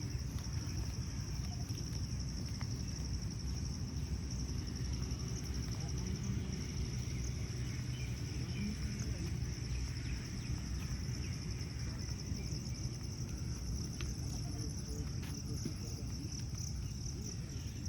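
Insect chorus: a steady high-pitched trill that pulses finely and holds throughout, over a low outdoor rumble.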